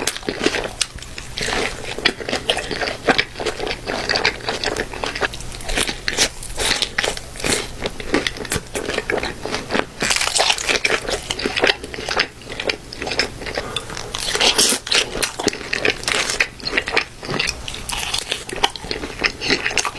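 Close-miked eating of In-N-Out fast food: repeated crunchy bites and chewing with many sharp crackling crunches.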